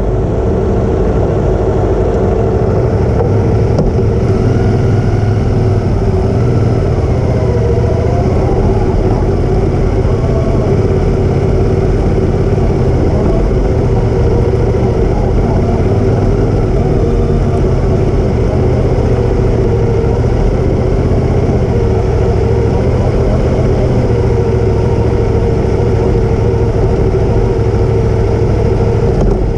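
Motorcycle engine running steadily, an even continuous drone.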